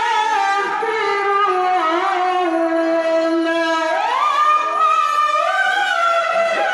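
A qari's voice reciting the Quran in long, ornamented held notes, climbing sharply to a very high held pitch about four seconds in.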